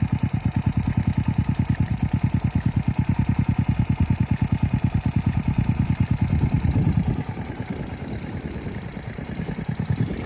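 Honda Monkey Z50A motorcycle's swapped-in 12V four-speed manual single-cylinder engine idling with an even, rapid beat of exhaust pulses. About seven seconds in it drops in level for a few seconds.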